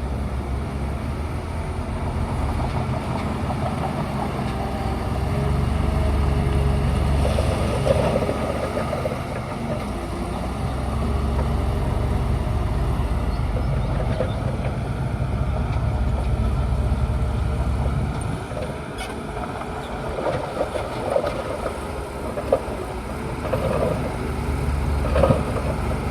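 Bulldozer's diesel engine running steadily with a low drone that eases off about two-thirds of the way through, with short irregular mechanical noises near the end.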